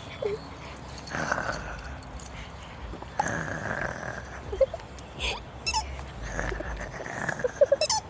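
A dog growling in play in three stretches of about a second each, with a few short, high whimpers between them and near the end.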